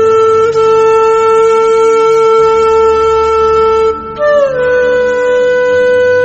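Music led by a reedy wind instrument. It holds one long steady note for about four seconds, breaks off briefly, then starts a higher note that slides down and holds.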